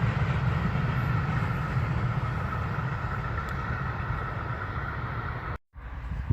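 Rolling rumble of a passing train on the line, steady but slowly fading as it moves away. The sound cuts off abruptly about five and a half seconds in and gives way to faint wind noise.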